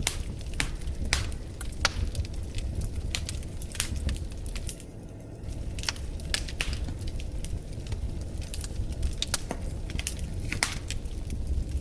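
Wood fire crackling in a fireplace: irregular sharp pops and snaps over a low, steady rumble of the flames, with a short lull in the popping about five seconds in.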